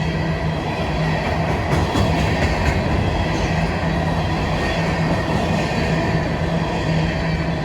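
Norfolk Southern freight train rolling past, a steady rumble of wheels on rail with a pulsing low tone and a few sharp clacks about two seconds in.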